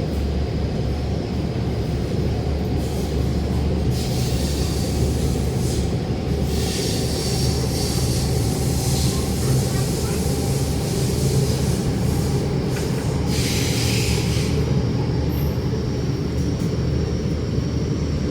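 Inside an MTR Rotem EMU metro car running through the tunnel: a steady loud rumble of wheels and running gear, with three spells of hissing, screeching noise from the wheels on the rails.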